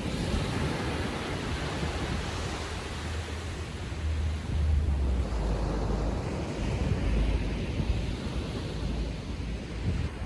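Small waves breaking and washing ashore on a calm sea, with wind rumbling on the microphone, strongest about halfway through.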